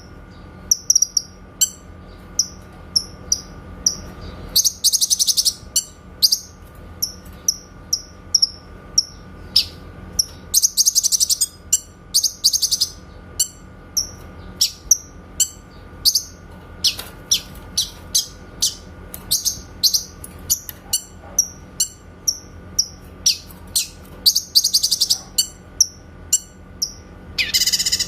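Cucak kinoy songbird calling: a fast string of sharp, high chip notes, broken several times by brief rapid trills.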